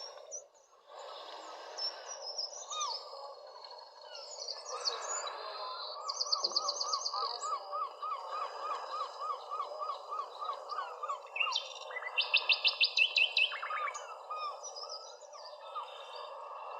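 Several birds calling over a steady background hiss. One bird gives a run of short repeated notes, about three a second, from about six to eleven seconds in. High rapid trills come just after six seconds and again around twelve to thirteen seconds in.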